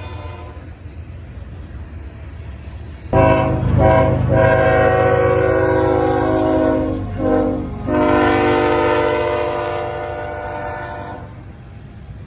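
Freight locomotive's air horn sounding a long blast, a short one and another long one, over the low rumble of the diesel locomotive. This is the pattern of the end of a grade-crossing horn signal.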